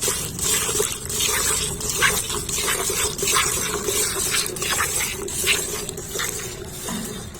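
Milk squirting in quick rhythmic streams as a cow is milked by hand, about two hissing squirts a second.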